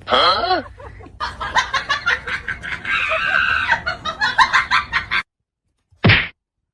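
An animal, likely a bird, calling: a rising-and-falling squawk, then a fast run of short repeated calls for about four seconds. One short sharp sound follows after a pause.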